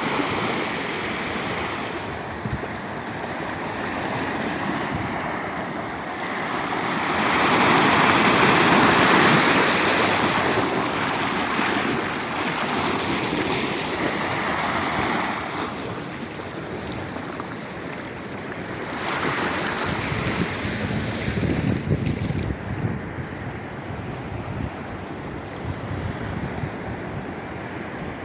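Black Sea surf breaking on the shore, a steady wash that swells into a loud surge about a quarter of the way in and another about two-thirds of the way through, then eases back.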